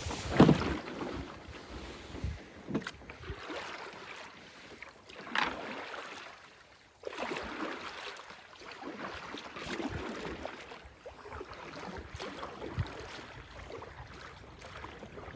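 Canoe paddle strokes: the blade dipping and pulling through the water with a swish every two to three seconds, water dripping and gurgling between strokes. The loudest stroke comes about half a second in.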